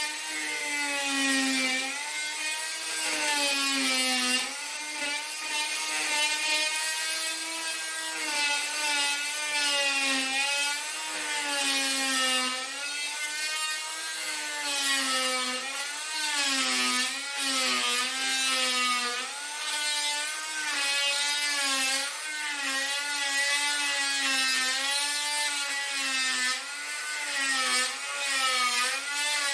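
Power tool cutting into wood, running continuously with its pitch wavering up and down as the load changes.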